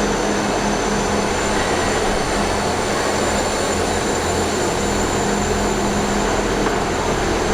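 Diesel train running, a steady rumble with a constant low hum.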